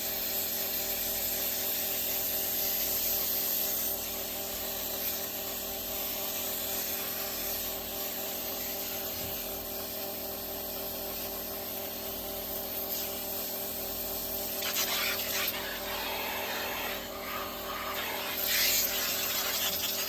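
Pressure washer converted from 220 V mains to a Milwaukee M18 battery, running and spraying: a steady motor-pump hum under a hiss of water spray, which gets louder in uneven patches over the last few seconds.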